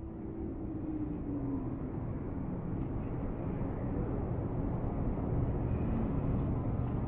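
Low, steady rumble of a train that swells gently over the first few seconds, with a faint tone sliding slightly down about a second in.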